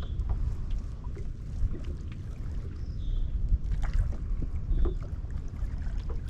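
Water splashing and dripping lightly around a kayak on a lake, with wind rumbling on the microphone.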